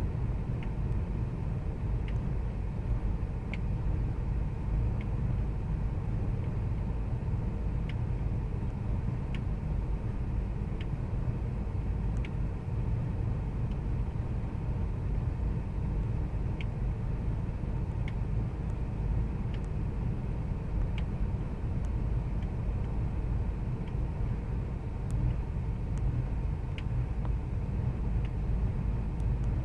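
2000 Ford Expedition's 5.4-litre V8 idling with a steady low rumble and faint irregular ticks. The owner complains of a rough idle.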